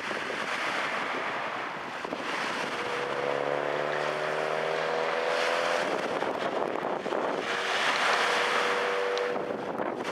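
Strong wind buffeting the microphone in surging gusts, over the wash of waves on a lake. A droning hum with several pitches rises slightly in the middle and comes back briefly near the end.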